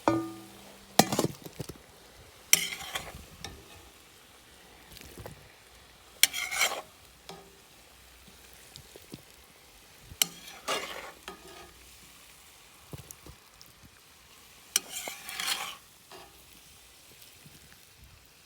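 A utensil scraping against a kazan of stewing meat, potatoes and mushrooms in about six separate short strokes, with a brief metallic ring at the start.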